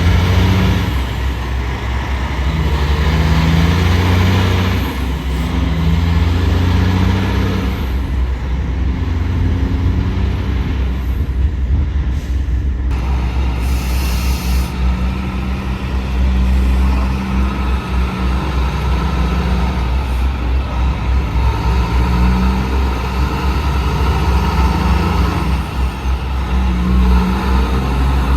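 Heavy diesel trucks' engines running, with a short burst of air-brake hiss about halfway through.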